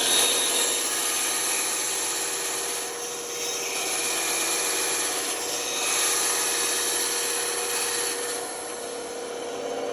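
Band saw cutting through wood, with the saw's steady motor hum underneath. The cutting noise starts at once, eases off briefly about three seconds in, and eases again near the end.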